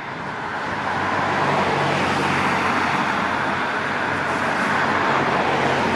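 Road traffic: a motor vehicle's engine and tyre noise build over the first second and a half and then hold steady as it passes close by.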